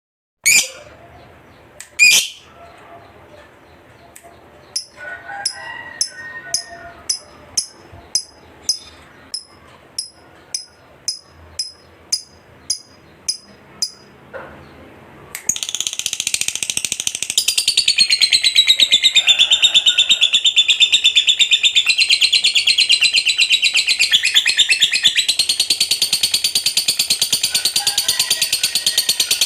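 Lovebird calling. It gives a few sharp calls, then a run of short chirps about one and a half per second. About halfway it breaks into a long, unbroken, high-pitched rapid chatter: the 'ngekek panjang' long chattering song prized in fighter lovebirds.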